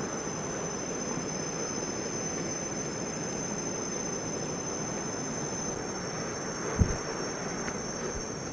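Insects, crickets by their steady high-pitched trilling, keep up a continuous chorus over a steady rushing background noise. A single low thump comes a little before the end.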